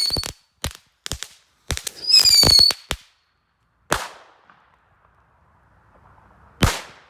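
Two Korsar 4 'Black Death' K-TS-2+ triple-effect firecrackers going off: a short high whistle, a scatter of sharp crackling pops, a second whistle with pops through it, then one loud bang about four seconds in and another near the end.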